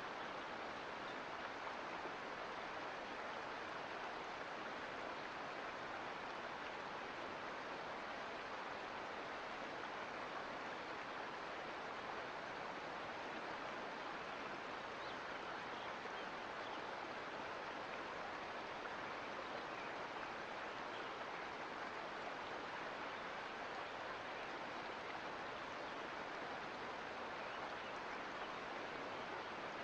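Mountain creek flowing steadily: an even, unbroken rush of water.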